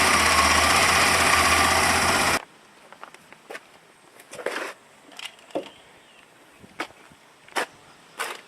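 1984 Corvette's 5.7-litre Cross-Fire Injection V8 running steadily just after starting, cutting off suddenly about two and a half seconds in. A few faint short clicks and chirps follow.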